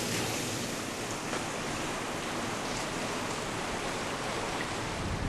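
Achi River flowing, a steady rushing of water.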